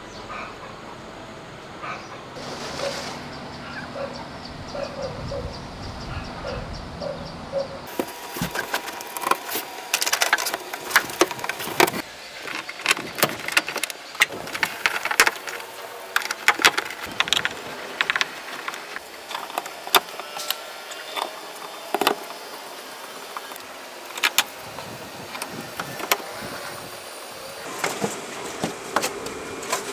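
Many sharp, irregular clicks and knocks, thick from about eight seconds in, after a quieter stretch with a low steady hum.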